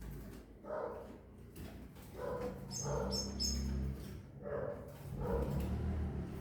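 Short animal calls repeated about five times, with three quick high chirps about halfway through.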